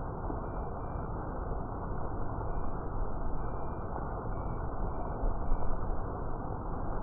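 Steady rainfall, an even rushing noise without a break, with brief faint high chirps coming through several times.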